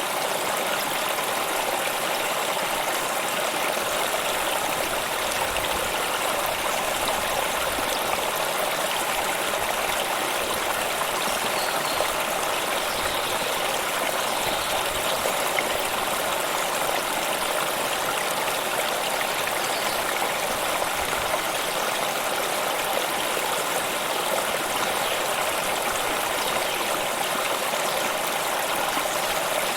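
Water flowing steadily in a stream, an even, unbroken babble.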